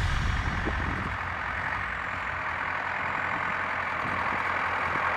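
A vehicle engine running steadily under a continuous hiss, growing slightly louder toward the end.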